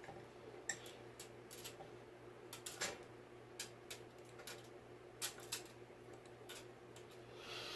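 Scattered light clicks and taps, about a dozen spread unevenly, from small ceiling-fan parts being handled and fitted together, over a steady low hum.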